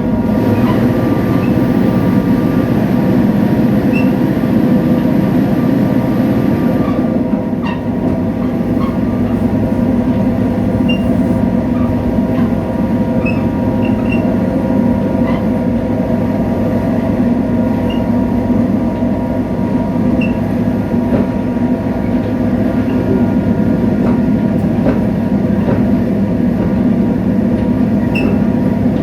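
Diesel engine of Korail locomotive 7351, a large road-switcher diesel, running steadily as the train travels: a continuous deep drone with faint scattered rail ticks.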